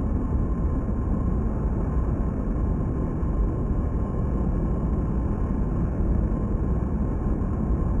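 Large jet aircraft's engines running in a steady low rumble, with a faint steady whine above it.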